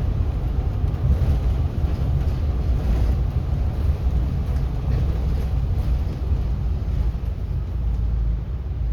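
City bus in motion heard from inside the cabin: a steady low rumble of engine and road noise.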